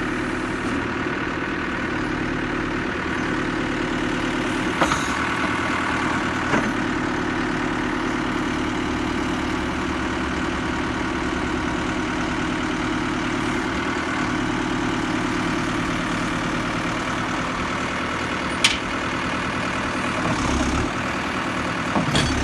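Caterpillar 420E backhoe loader's diesel engine idling steadily, with a few short sharp clicks about five, six and a half and eighteen and a half seconds in.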